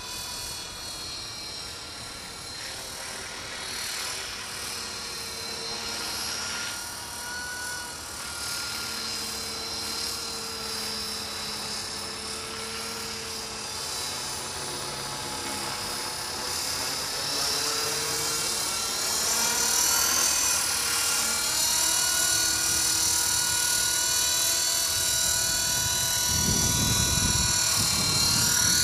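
Trex 450 electric RC helicopter flying: its brushless motor and rotors whine steadily, the pitch shifting slightly as it manoeuvres. It grows louder over the second half, with a low rumble near the end.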